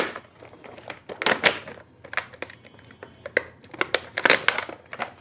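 Plastic toy packaging crinkling and crackling in irregular bursts as it is pulled open by hand, louder about a second in and again near the four-second mark.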